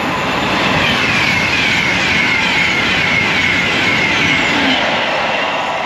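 A train passing at speed on a main line: a loud, steady rush of wheels and air, with a high whine that falls in pitch again and again.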